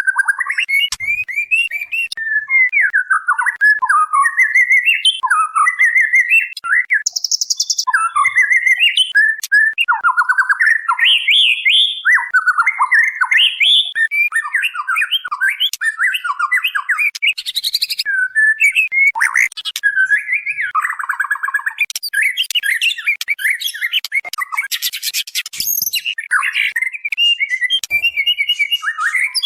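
Female white-rumped shama (murai batu) calling to a male: a continuous stream of rapid, varied whistled phrases, broken now and then by short harsh, rasping bursts.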